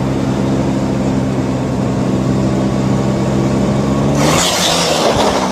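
A vehicle engine running at a steady, even hum, joined about four seconds in by a loud rushing hiss as the hum dips slightly in pitch.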